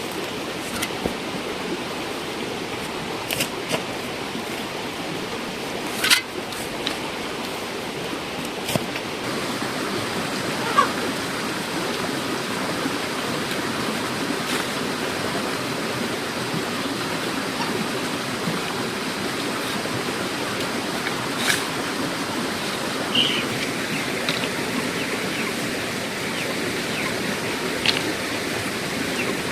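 Steady rushing noise like running water, with scattered sharp knocks and clicks over it, the loudest about six seconds in.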